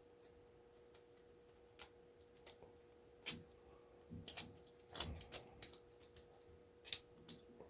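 A few faint clicks and light knocks, about half a dozen spread over several seconds, of small pieces of scrap metal and parts being handled, over a faint steady hum.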